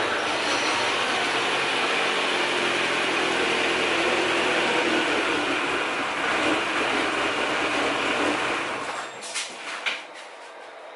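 Car engine running, with a heavy, steady noise over it, dying away about nine seconds in; a few short knocks follow.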